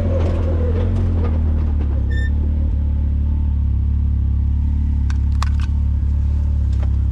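Can-Am Maverick side-by-side's engine running at low revs: a steady deep drone, its higher tones falling away at the start. A brief high tone sounds about two seconds in, and a few light clicks come near the middle.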